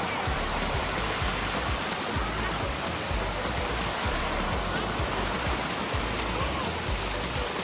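Steady rush of water cascading down a waterfall, with background music faintly underneath.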